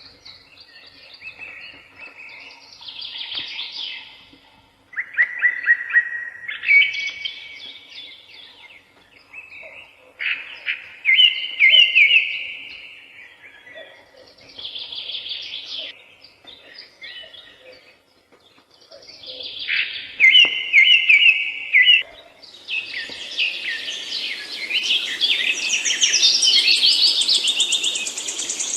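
Songbirds singing and chirping in short repeated phrases with pauses between them. Near the end several birds sing at once, with a higher, rapid trill over the top.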